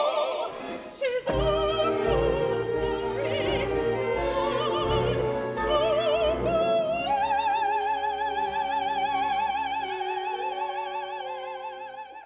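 Operatic singing with orchestra: voices with wide vibrato over deep low beats, rising to one long high note held for about five seconds that ends sharply.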